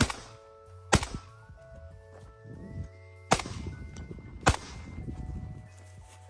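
Four pistol shots, the first two about a second apart and the next two about a second apart after a two-second gap, over steady background music.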